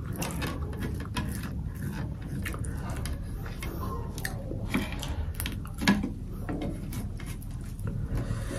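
A person chewing buckwheat flatbread with honey close to the microphone, with wet mouth clicks and the light scrape and tap of a metal spoon on the bowl and bread. One louder click about six seconds in.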